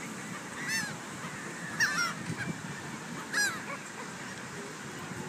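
Seagulls calling: three short, harsh cries, one about a second in, one near two seconds, and one a little after three seconds.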